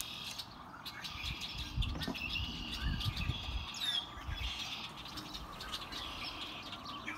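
Small songbirds chirping repeatedly, short high notes, with a low rumble from about two to four and a half seconds in.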